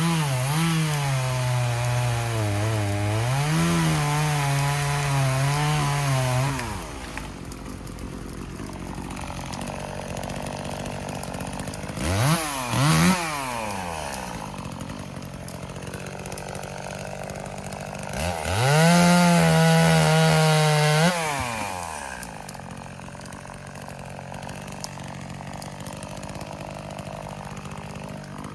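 Chainsaw running at full throttle, its pitch sagging and recovering as it works through wood, then dropping to idle. It is blipped twice, run at full throttle again for a few seconds, and settles back to idle.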